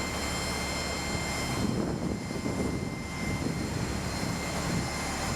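Riverboat engine running steadily: a low drone with a steady high whine over it.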